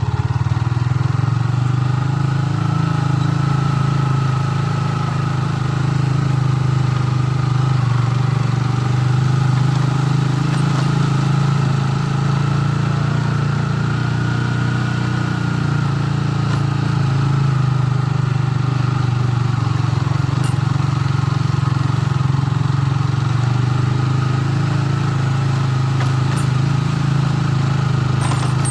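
An engine running steadily at an unchanging speed, a low, even hum.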